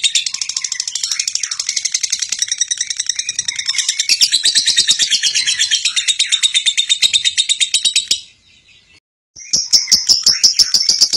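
A bird chirping in a fast, even series of high notes, about ten a second, with a break of about a second near the end.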